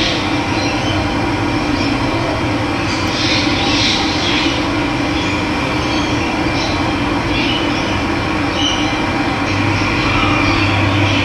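Running water rushing steadily, with a few short bird calls now and then.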